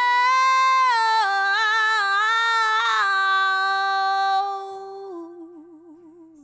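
Solo female voice singing unaccompanied, a wordless held note that moves through a short run of pitches, settles on a lower note, then fades out with a wide vibrato. The vocal is run through a Universal Audio tube compressor plug-in.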